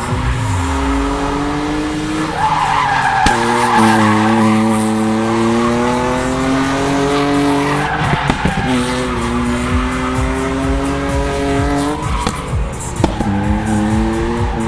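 BMW E36 Compact's inline-six engine held at high revs while drifting. Its pitch climbs slowly and drops back briefly about two, eight and twelve seconds in, over tyre squeal.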